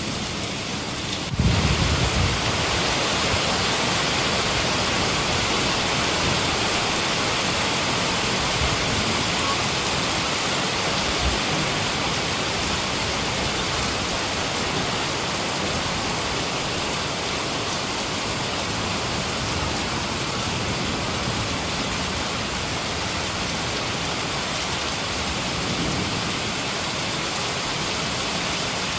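Heavy rain pouring steadily, with low rumbles of thunder. The rain comes in suddenly and louder just over a second in.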